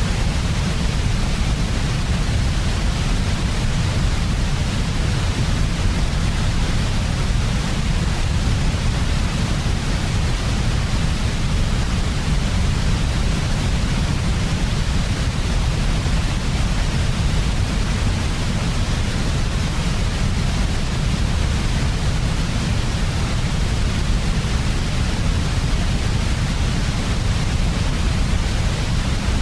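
Steady generated white noise for sleep, shaped with a heavy low rumble under a softer, even hiss.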